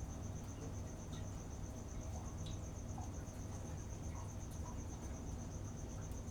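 A cricket chirping steadily at night, a high pulsing note repeating about five times a second, over a low steady hum.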